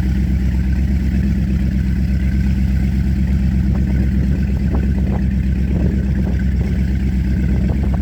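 Four Winns Liberator powerboat's engine running steadily under way, an even deep drone, with a few faint ticks over it in the second half.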